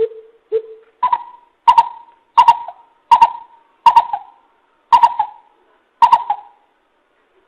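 Greater coucal calling: a run of deep hoots, the first two lower, then about six pitched higher, spaced roughly two-thirds of a second apart.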